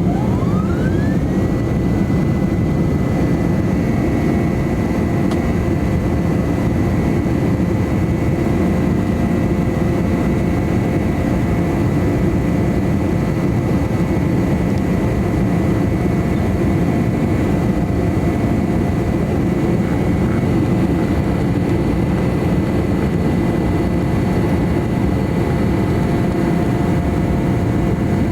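Cabin sound of a McDonnell Douglas MD-11's General Electric CF6-80C2 turbofans spooling up to takeoff thrust: a whine rises over the first second or two and then holds steady over a loud, even engine roar.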